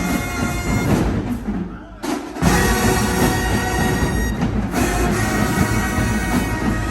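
Marching band playing held brass chords over drums. The sound drops off briefly about two seconds in, then the full band hits back in loudly.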